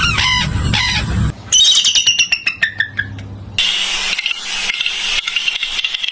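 A run of different bird calls spliced one after another, changing abruptly twice. First, a repeated call about three times a second over a low rumble; then a quick series of falling whistled notes; then a dense chatter of many birds.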